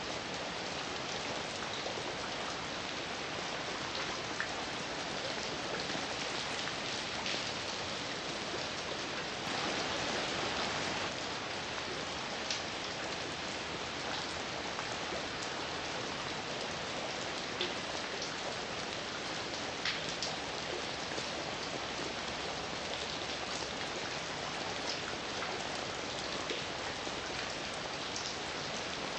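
Heavy rain falling steadily, with individual drops ticking sharply here and there and a short heavier spell about ten seconds in.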